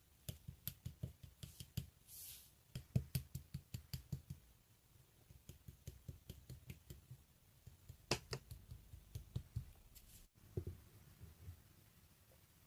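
Quiet, irregular light taps and clicks, several a second, with a short hiss about two seconds in.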